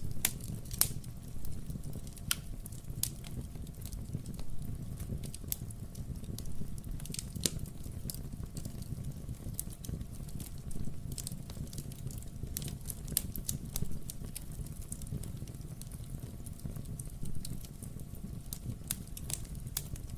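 Wood-burning fireplace crackling, with irregular sharp pops scattered through it over a steady low rumble.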